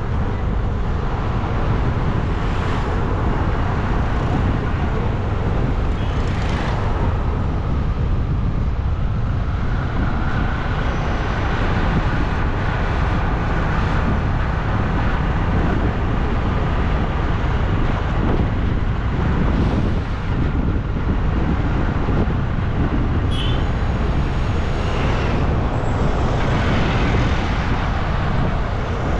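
Steady rush of wind on the microphone and road noise from a moving bike, with a few brief higher-pitched sounds near the end.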